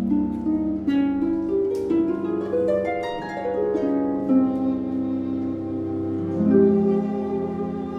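Classical chamber music for harp and strings: the harp plays a quick rising run of plucked notes over held low string notes, then the strings carry on with sustained lines.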